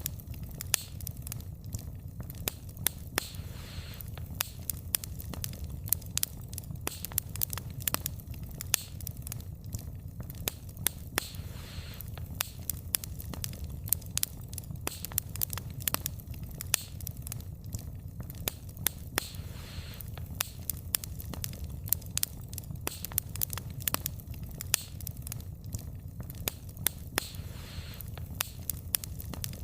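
Wood campfire burning, the logs crackling and popping with frequent sharp, irregular snaps over a low, steady rumble of the flames.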